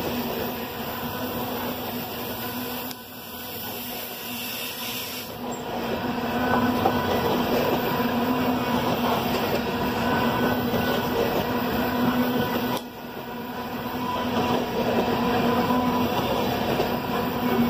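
Loaded coal train's freight cars rolling past: a continuous rumble and clatter of steel wheels on rail, with a steady hum running through it. The sound drops off sharply about three seconds in and again near thirteen seconds, then builds back up.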